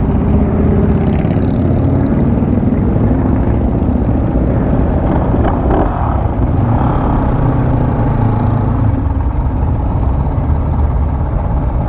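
Motorcycle engine running steadily at low speed, a low, even engine note with small rises and falls in pitch.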